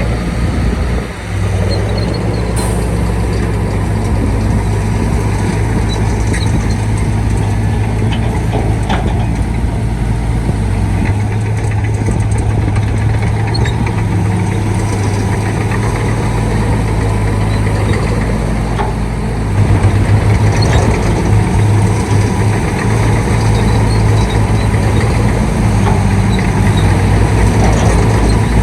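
Shantui D95 bulldozer's diesel engine running steadily with a low hum, getting louder about two-thirds of the way through.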